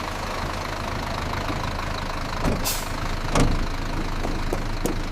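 A motor running steadily, a low rumble under an even hiss, with a few sharp clicks in the second half.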